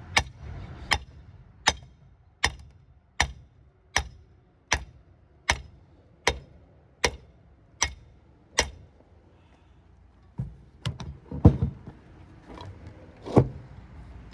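Twelve evenly spaced hammer blows, about three-quarters of a second apart, while a copper transformer is being broken down for scrap. After a pause of a second or two come a few heavier, irregular knocks, the loudest about halfway through that group.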